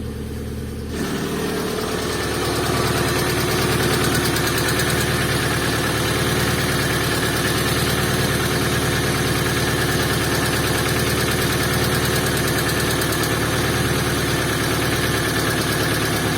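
Opel C20XE 2.0-litre 16-valve four-cylinder engine idling cold, with a hydraulic lifter ticking intermittently while it bleeds itself of air after being cleaned. The sound grows louder over the first few seconds, then holds steady.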